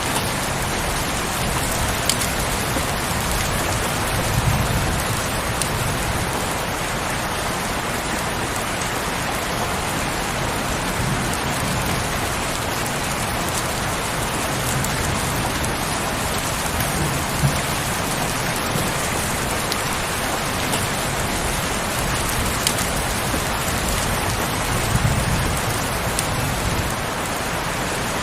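Heavy rain falling steadily, an even hiss with occasional sharper drop ticks.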